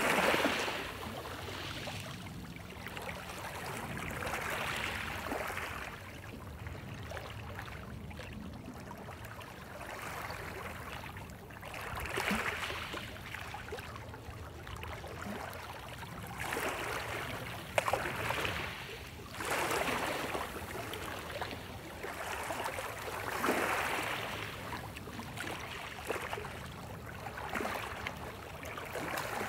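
Small sea waves washing onto the shore, each surge of foamy water swelling and falling back every few seconds over a steady low rumble of surf. There is one sharp click partway through.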